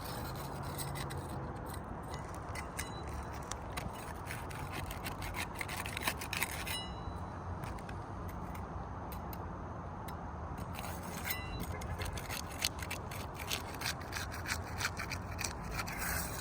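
Three-tab asphalt roof shingles being pried loose from their seal strips: scraping and crackling in quick strokes, in two spells with a quieter pause in the middle, over a steady background hiss.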